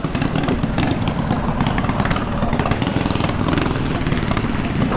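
Mini bike engine running steadily, with a rapid even firing.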